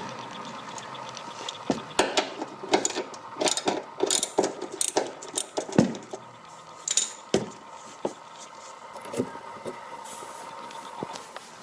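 Irregular metallic clicks and clinks of a wrench on 10mm bolts and loosened fasteners while a car's plastic splash guard undercover is being unbolted. The clicks come thick and fast for the first several seconds, then thin out to a few scattered ones.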